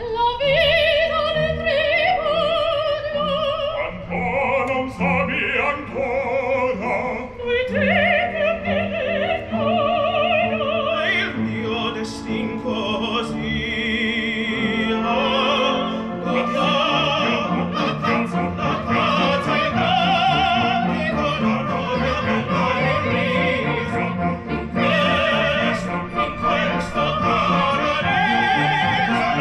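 Operatic singing with a strong vibrato over sustained instrumental accompaniment, held notes swelling and changing pitch.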